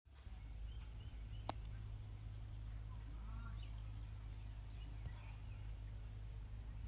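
Faint, scattered bird chirps over a steady low hum, with a single sharp click about a second and a half in.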